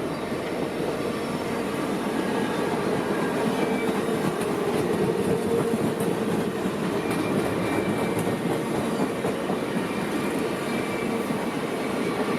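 Train cars rolling past at slow speed: a steady rumble of steel wheels on the rails with faint, brief wheel squeals now and then.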